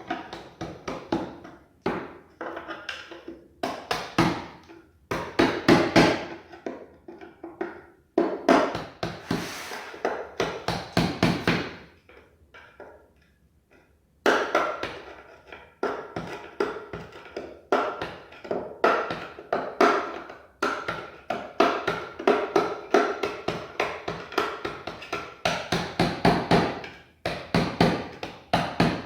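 Rapid runs of sharp taps and knocks from a hand tool working at the floor where a broken tile has been lifted, chipping up old material. The strikes come in bursts, with a pause of about two seconds around twelve seconds in.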